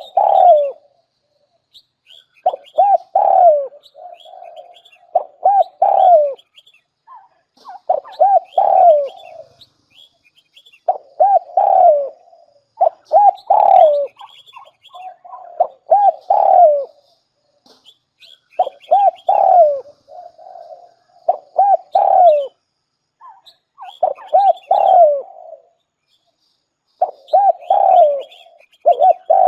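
Spotted dove cooing over and over, each phrase a quick run of several coos, repeating every two to three seconds.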